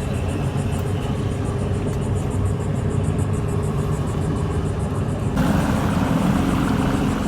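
An engine running steadily. About five seconds in, the sound changes abruptly and becomes louder and rougher.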